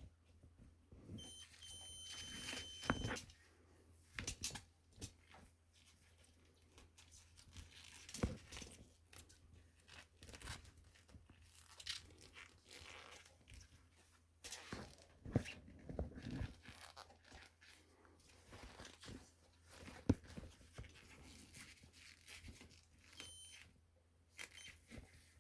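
Homemade continuity tester beeping, a steady high tone for about a second and a half near the start and briefly again near the end, which signals that the circuit is closed. Around it come scattered clicks and rustles as the power-cord wires are handled.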